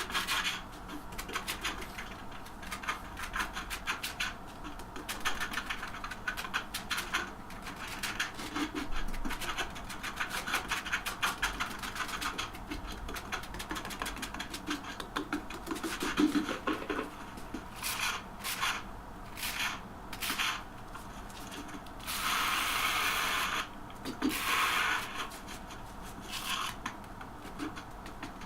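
Hand tiling work on porcelain stoneware tile: irregular scraping and rubbing with many light clicks and taps, and a steady hiss for about a second and a half near the end.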